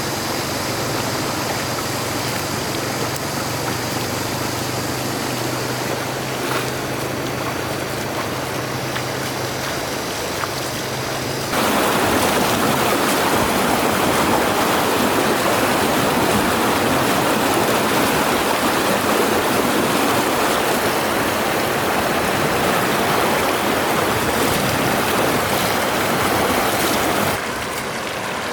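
Steady rushing water. It jumps abruptly to a louder, brighter rush about eleven seconds in and drops back again shortly before the end; a low steady hum lies under the first part.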